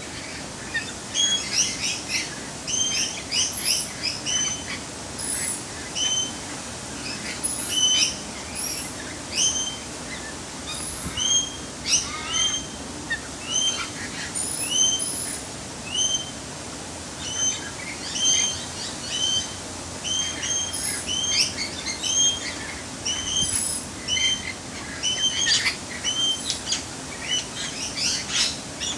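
Birds calling: short chirps repeated about once or twice a second, with higher, thinner chirps mixed in.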